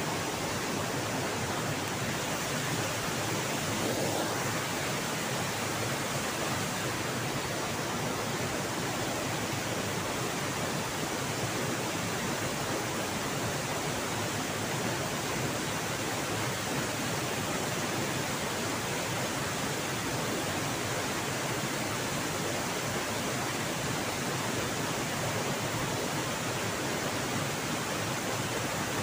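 Steady, even rush of fast-flowing river water and a waterfall.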